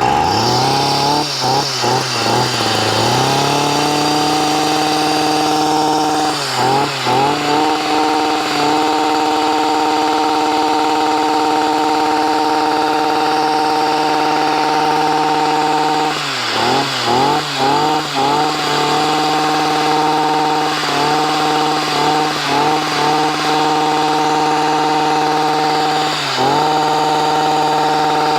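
Stihl MM55C tiller's small two-stroke engine running on its newly replaced carburetor. It settles to a higher, steady speed about three seconds in. The speed wavers briefly several times, around seven seconds in, between sixteen and nineteen seconds, and near the end.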